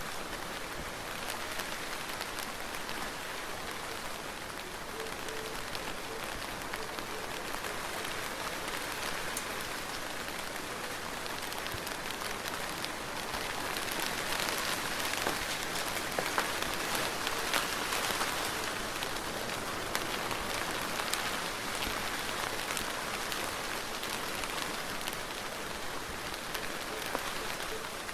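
Soft, steady rain: an even hiss of rainfall with scattered individual drop ticks, swelling slightly louder around the middle.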